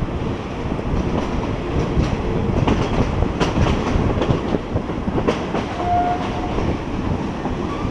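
Thai passenger train 283 running on the rails, a steady rumble with wheels clacking over rail joints, and a brief high whine about six seconds in.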